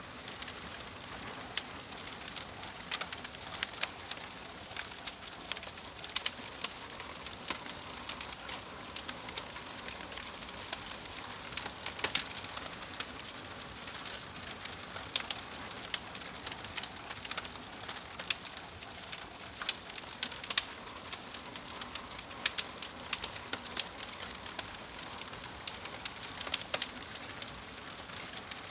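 Crackling fire: a steady hiss with irregular sharp pops and snaps, several a second, some louder than the rest.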